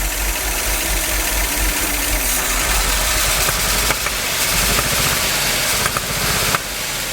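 Big-block V8 of a 1969 Chevrolet C50 truck running steadily at a fast idle, with a few light clicks; it gets a little quieter about six and a half seconds in. The owner believes the ignition timing is off.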